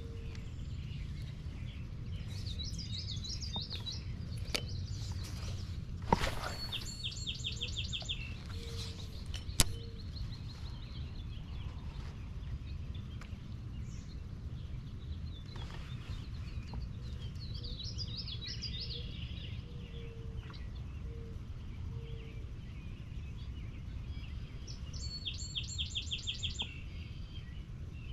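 Several songbirds calling and singing over a steady low outdoor rumble, with quick runs of repeated high notes twice. Two sharp clicks stand out in the first ten seconds.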